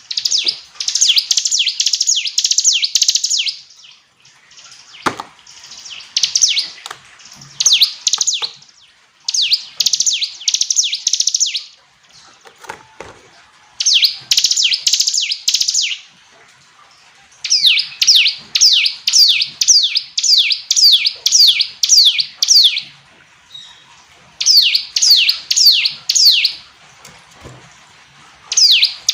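Ciblek gunung, a prinia, singing: phrases of rapid, sharply falling high notes, each lasting a few seconds, separated by short pauses.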